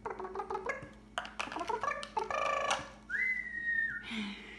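Indian ringneck parrot chattering in short, buzzy, speech-like bits, then giving one clear, held whistle for about a second, three seconds in.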